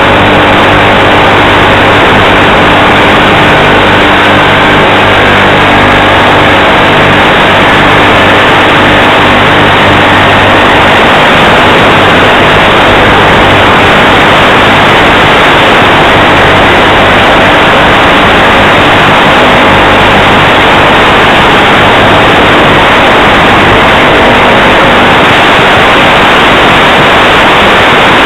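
Model airplane's motor and propeller running steadily under a heavy, constant hiss, heard through the plane's onboard FPV audio.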